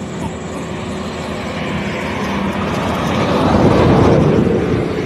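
Vehicle noise that swells as it passes close by, loudest about four seconds in, then eases off.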